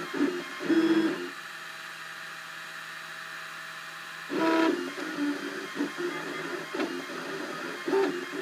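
Cubify 3D printer's stepper motors whining in short, changing pitched tones as the print head moves. About a second in they settle into one steady, quieter tone for about three seconds, then pick up the changing tones again.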